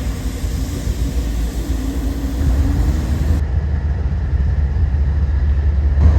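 Kansas City Southern diesel locomotive pulling a freight train, a deep low rumble that grows louder about halfway through.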